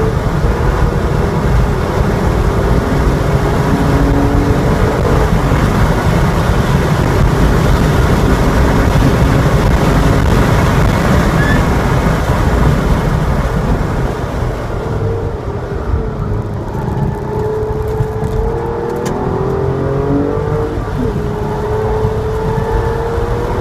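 Porsche 911 Targa's flat-six engine pulling hard at high revs, heard from inside the car over heavy wind and road noise. About fourteen seconds in it drops off as the car lifts and brakes for a corner, then the engine note climbs again as the throttle goes back on.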